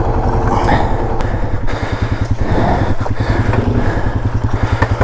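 ATV engine running hard under heavy throttle with a fast, even pulsing beat as the quad pushes through a mud hole.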